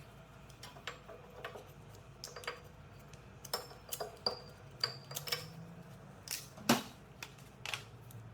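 Metal tools and parts clinking and tapping against each other in an irregular run of sharp clicks, some with a brief ring, the loudest a little after halfway, over a faint low hum.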